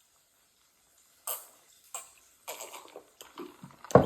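Close-up mouth sounds of eating fish and rice: wet smacks and clicks of chewing, coming irregularly after a second or so of quiet, with a loud thump near the end.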